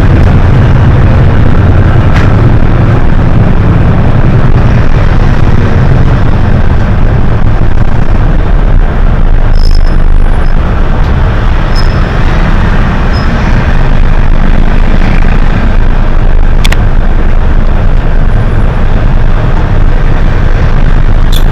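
Hino HS8J city bus under way: steady loud engine and road rumble, with a few short sharp ticks scattered through it.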